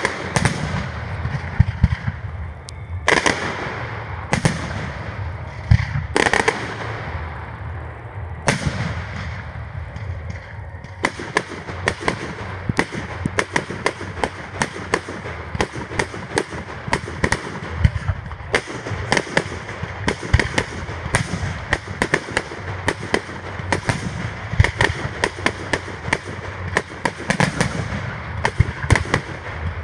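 Fireworks display: aerial shells bursting with separate bangs a couple of seconds apart, then from about eleven seconds in a dense, rapid barrage of many bangs and crackles each second.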